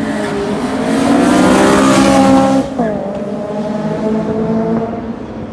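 RB-swapped Nissan S14's inline-six engine revving up, rising in pitch with loud tire noise, then cutting off suddenly about two and a half seconds in; the engine then holds steady revs.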